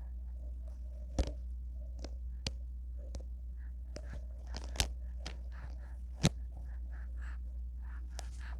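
Four sharp clicks a second or so apart over a steady low hum, with many faint, short, quiet sounds in between.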